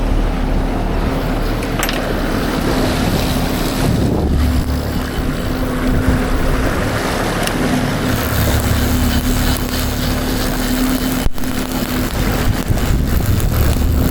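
Fishing boat's engine running steadily with a constant drone, under wind buffeting the microphone.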